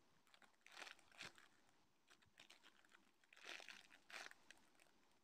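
Faint crinkling and rustling from a homemade squishy being squeezed and handled, in two short bouts about a second in and again around three and a half seconds in.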